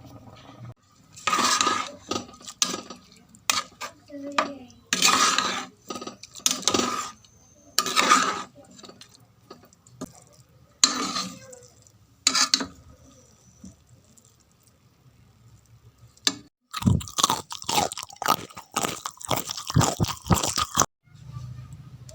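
Metal utensils scraping and clattering against pots and dishes in irregular bursts. After a short lull there is a denser run of quick clatter near the end.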